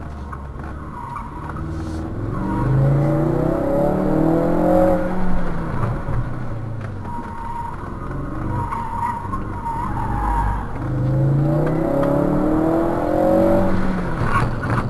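A 2018 Ford Focus RS's 2.3-litre turbocharged four-cylinder, heard from inside the cabin, revving up hard under acceleration twice, once early and once near the end. In between, its Yokohama A052 tyres squeal through the turns.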